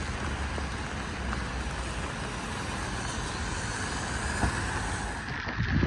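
Steady road-traffic noise on a wet street in the rain, with a low rumble of wind on the microphone; a few louder gusts hit near the end.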